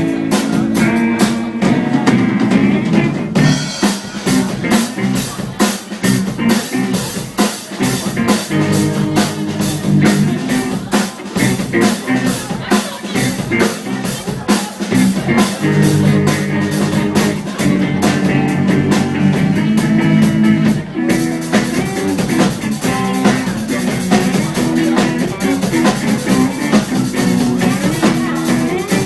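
Young rock band playing live: a drum kit beating fast and steadily under guitar and bass.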